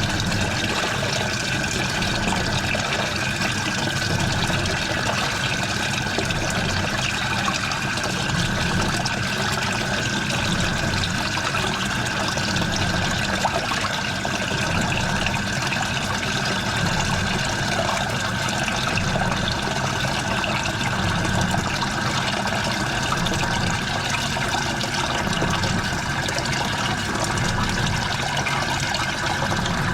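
Washing machine mid-cycle, with water splashing and trickling inside the drum as a steady, unbroken sound.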